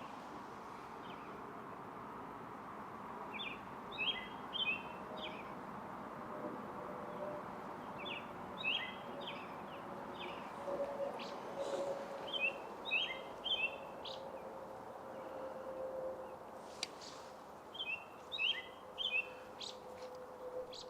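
A small bird chirping in short runs of three or four quick notes every few seconds, over a steady hiss of outdoor background noise.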